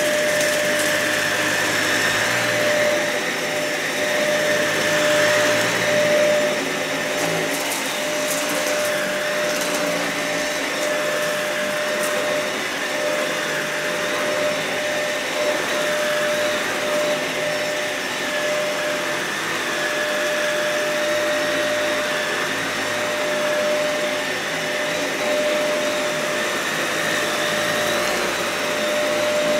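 Dyson vacuum cleaner running steadily over a matted, dirty carpet, with a constant motor whine. A few brief crackles come about a quarter of the way through.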